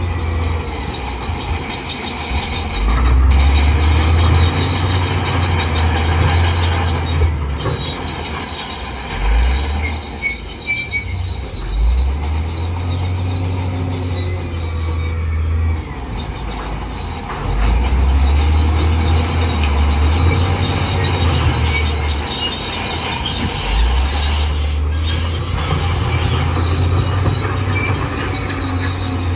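Crawler bulldozer working rock fill: its diesel engine runs and swells under load several times, while the steel tracks and blade squeal and scrape against the rock.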